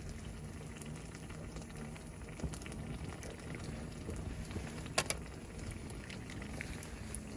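Sukiyaki simmering in a frying pan, a steady bubbling, with one sharp click about five seconds in.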